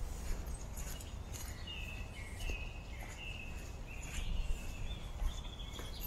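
A bird singing a string of short, clear whistled notes in quick succession, starting a couple of seconds in, over a steady low rumble and occasional crunching footsteps on dry fallen leaves.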